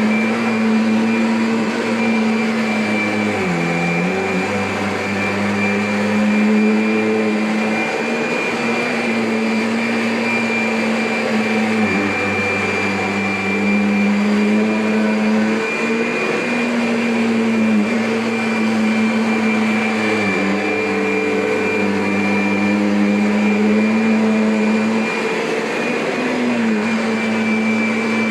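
Kirby vacuum cleaner running steadily, a motor hum with a high whine, its pitch dipping briefly now and then.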